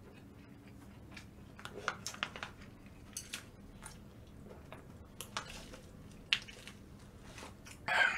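Close-miked mouth sounds of eating: wet chewing with short crunches and clicks, coming in irregular bursts, with a louder burst near the end.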